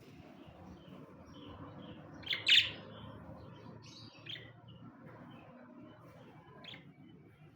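Pet budgerigars chirping: one loud sharp chirp about two and a half seconds in, then a few softer short chirps over faint quiet twittering.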